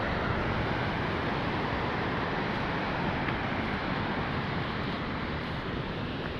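Steady rushing noise outdoors, even throughout, with no distinct events.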